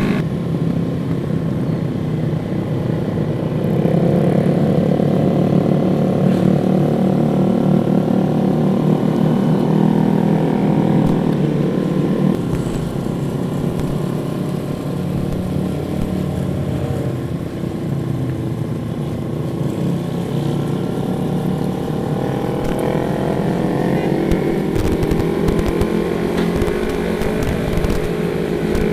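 Motorcycle engine running as it is ridden, its pitch rising as it accelerates a few seconds in, easing off, then climbing again near the end.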